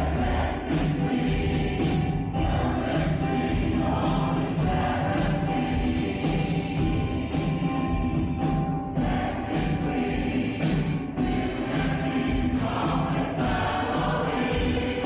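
Choir singing a song with a steady beat of percussion strokes behind the voices.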